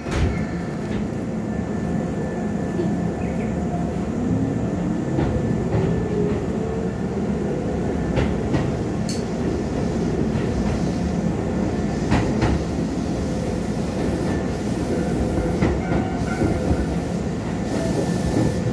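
Keisei 3500-series commuter train running, heard from inside the car: a steady low rumble with a whine that rises in pitch over the first several seconds as the train gathers speed. The wheels clack over rail joints now and then, often in quick pairs.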